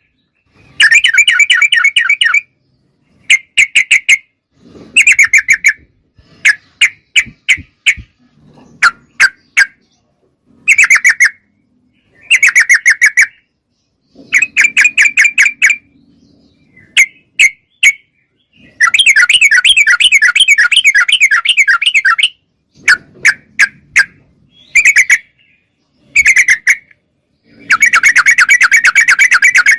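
Yellow-vented bulbul (trucuk) calling in repeated bursts of rapid chattering notes, each phrase lasting a second or a few seconds. The phrases are separated by short pauses and scattered single sharp notes.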